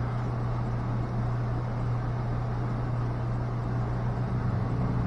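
Steady low machine hum at an even level, with a faint noise haze above it.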